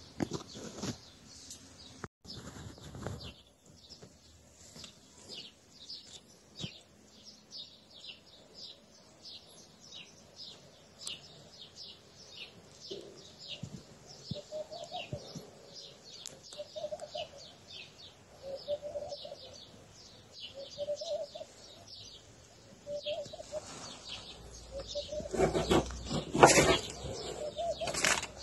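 Small birds chirping in a fast, steady series of short high notes, with a lower call repeating about every two seconds from the middle on. Louder rustling noise comes in near the end.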